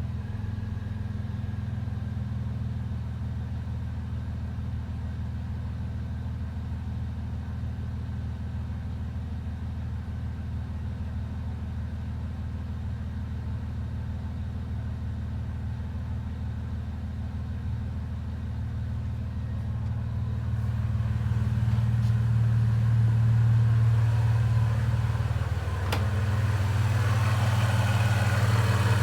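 Supercharged Toyota 3.4-litre V6 running steadily at idle after a cold start. About twenty seconds in it grows louder and brighter, as if the engine speeds up.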